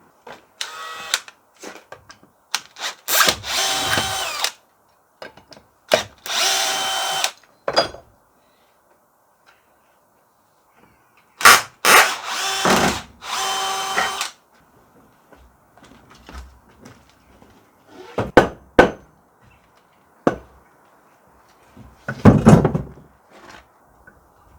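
A power drill running in several short bursts of one to two seconds each, its motor holding a steady pitch through each burst. A few sharp knocks follow near the end.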